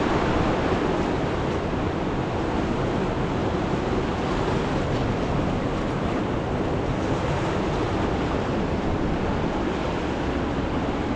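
Steady rushing noise of a river in flood, an even roar of water with some wind.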